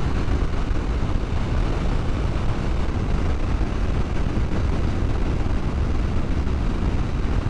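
Motorcycle cruising at a steady road speed: a steady mix of engine drone and wind rush.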